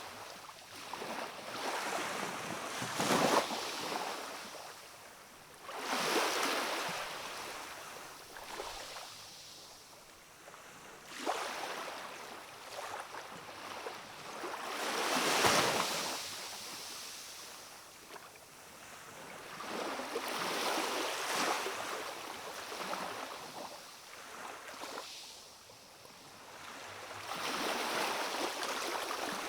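Small waves of a calm sea washing in and drawing back, a hiss that swells and fades every few seconds, the largest about halfway through.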